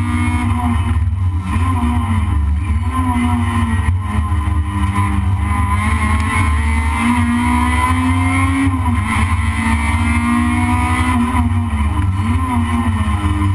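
Toyota Corolla race car's engine heard from inside the cabin, running hard under a steady low rumble. Its pitch climbs and drops back several times.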